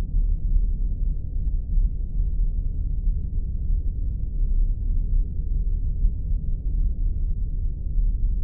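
Sci-fi spaceship sound effect: a steady, deep rumbling drone like an engine hum aboard a starship, with nothing above a low muffled range.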